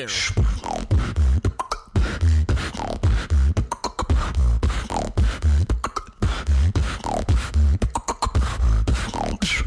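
A female beatboxer performing: deep bass kicks and sharp snare-like clicks in a steady beat, with short falling vocal sweeps every couple of seconds.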